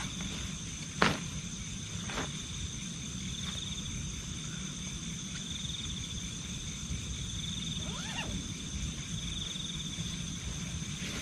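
Night insects, crickets or similar, trilling steadily in high continuous tones over a low background rumble. A sharp knock comes about a second in, a softer one about a second later, and a brief faint rising voice-like sound near eight seconds.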